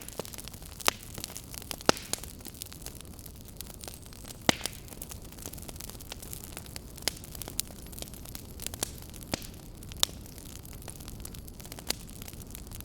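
Fire burning in a fireplace, crackling with irregular sharp pops over a steady low rumble and hiss. The louder pops come about a second in, near two seconds, at four and a half seconds and at ten seconds.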